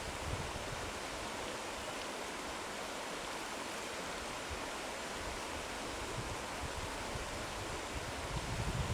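Steady rushing of a waterfall, an even hiss of falling water, with low rumbles of wind buffeting the microphone near the end.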